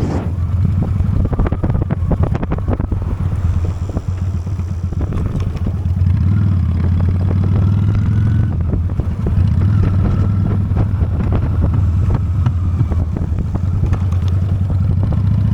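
Honda Steed V-twin motorcycle engine running steadily at cruising speed, with wind buffeting the microphone as the bike rides along.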